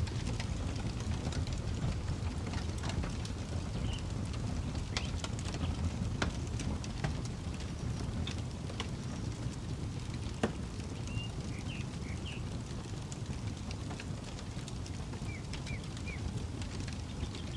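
Campfire crackling, with irregular sharp pops and snaps over a steady low rumble. A bird chirps briefly in a few small groups, about four seconds in, around the middle and near the end.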